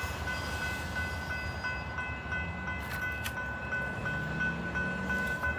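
Train departing: low engine rumble whose pitch rises from about two and a half seconds in, under a steady high ringing tone.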